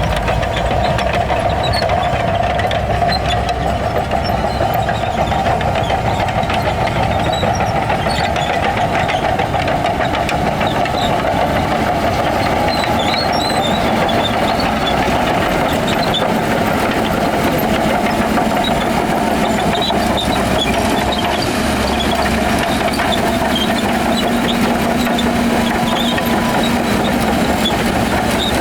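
Diesel engine of heavy earthmoving machinery running steadily with a constant mid-pitched drone.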